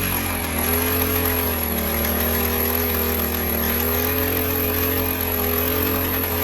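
Honda Elite 250 scooter engine running steadily at a fast idle just after being started and revved, its pitch wavering slightly.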